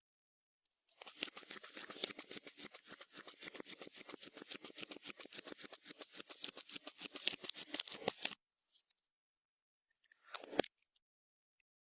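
Clear slime being kneaded and squeezed by hand, giving off a rapid run of crackling clicks and pops from trapped air for about seven seconds, then a short squelch near the end.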